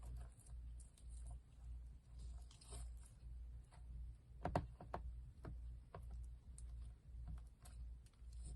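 Slime being squeezed and worked by hand, giving scattered small clicking pops, with a louder burst of pops about four and a half seconds in.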